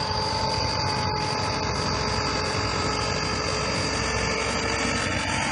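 Truck engine running steadily, with a few constant tones over a steady rumble.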